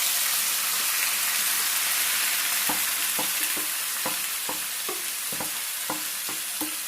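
Yogurt-marinated chicken sizzling in hot coconut oil with curry leaves in a pan. From about three seconds in, a utensil knocks against the pan about twice a second as the chicken is stirred.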